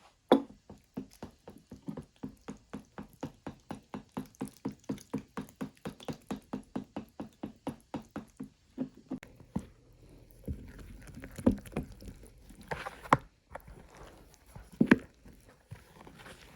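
Rhythmic knocking, about three strokes a second for some nine seconds, the first stroke the loudest; then a few scattered, louder knocks.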